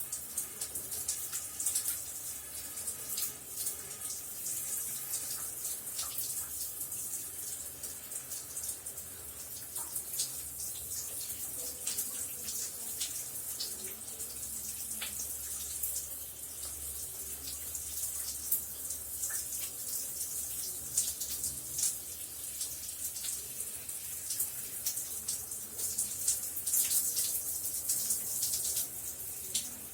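Running shower: a steady hiss of water spraying, with water splattering and dripping onto a hard surface throughout.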